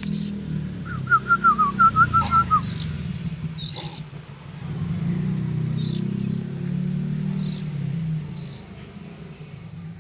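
Oriental magpie-robin (kacer) chick giving short, high chirps, roughly one a second. A second or so in comes a quick run of about eight lower whistled notes, the loudest sound here. A low hum runs underneath.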